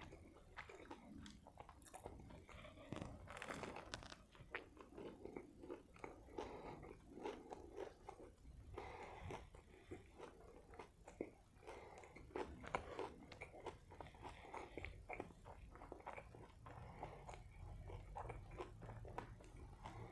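Close-miked, faint chewing of a mouthful of burger, with many small crunches and clicks throughout.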